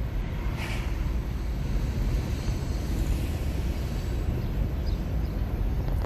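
Steady road and tyre rumble heard inside the cabin of a 2021 Nissan Leaf electric car on the move.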